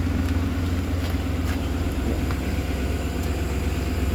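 Ford F-550 service truck's engine idling with a steady low hum, with a few faint clicks over it.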